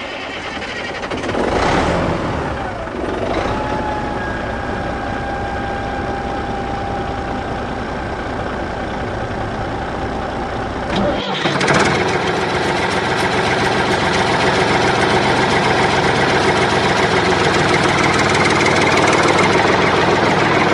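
A vehicle engine running, with a steady whine for several seconds. About 11 s in the sound breaks off sharply and comes back louder.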